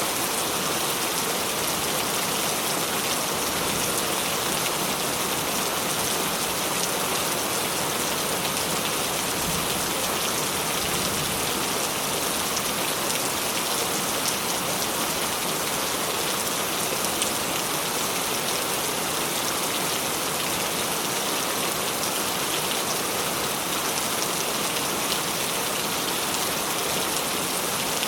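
Steady rain falling, an even hiss with scattered drop ticks, holding the same level throughout.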